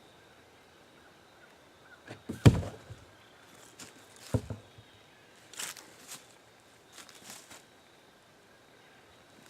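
A few dull thumps and knocks over a quiet background. The loudest comes about two and a half seconds in, a second one near four and a half seconds, then several lighter knocks.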